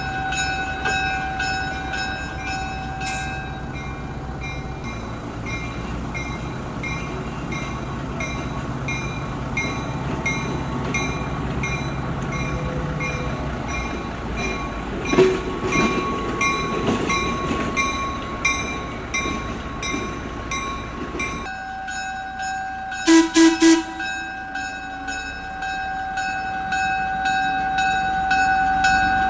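Train running, with a steady high whine and an even ticking rhythm; the sound changes abruptly about two-thirds of the way through, and three short loud blasts follow close together.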